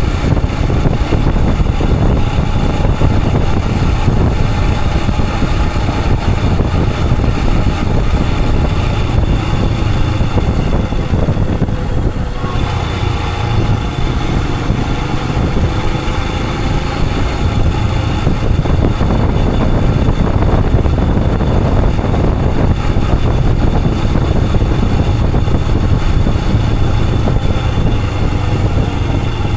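Royal Enfield Himalayan 411's single-cylinder 411 cc engine running steadily while the motorcycle is ridden, with wind noise on the action camera's microphone. A slight lull comes about twelve seconds in.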